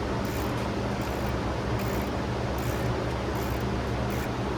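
Steady mechanical hum and hiss of a running fan or air-conditioning unit, with a low drone and faint, regular high ticks about every three-quarters of a second.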